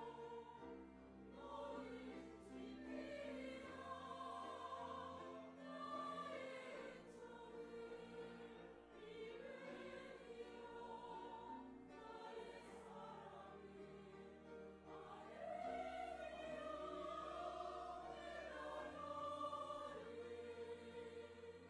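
Church choir singing an anthem in sustained phrases over steady low notes that change every few seconds.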